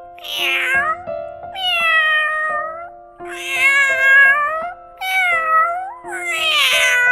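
Domestic cat meowing: five drawn-out meows in a row, each about a second long.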